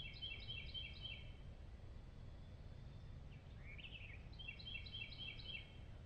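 A small songbird singing at a distance: a quick phrase of about six repeated notes, sung twice, with a different short call between them that rises and falls. A steady low rumble runs underneath.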